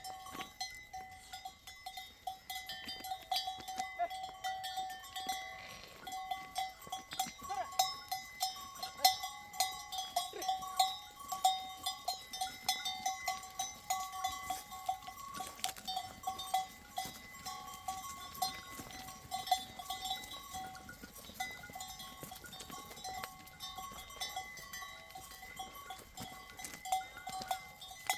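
Livestock bells hung on a grazing flock clinking and ringing irregularly and without pause.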